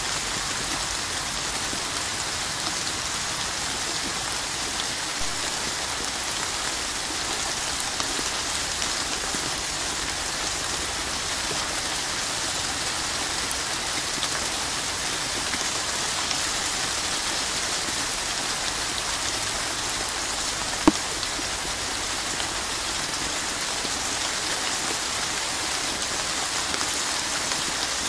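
Steady rain falling on a hard surface, an even, unbroken hiss of drops. About three-quarters of the way through there is one sharp, louder tap.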